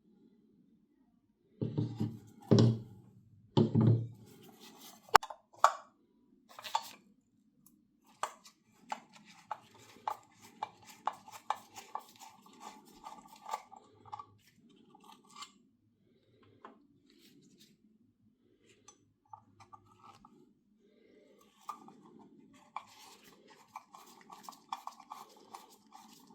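Hand work on small parts: a few heavy knocks, a sharp click, then runs of quick clicks and scraping that pause and start again near the end.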